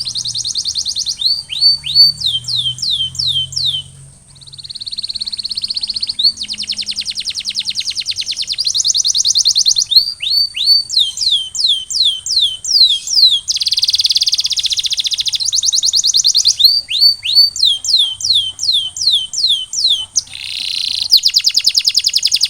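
Canary singing continuously, alternating fast rolling trills with phrases of repeated downward-sweeping whistled notes.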